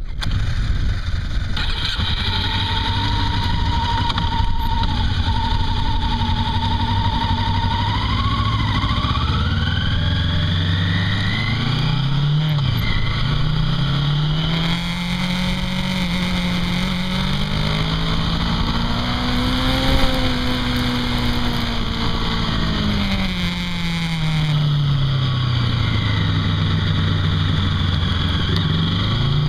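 Honda CB500 motorcycle engine under way, its revs climbing, dropping sharply about twelve seconds in as at a gear change, then climbing to a peak around twenty seconds and falling away on the overrun before picking up again near the end. Steady wind rush sits under the engine.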